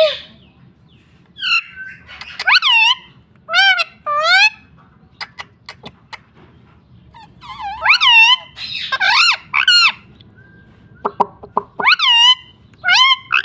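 Indian ringneck parrot calling in a series of high, pitch-bending squawks. Twice, about halfway through and again near the end, there is a quick run of short sharp clicks.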